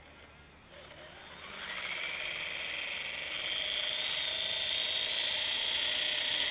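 WLtoys V950 RC helicopter's brushless motor and rotor spooling up: a whine that climbs in pitch and loudness over the first couple of seconds, then holds steady and high.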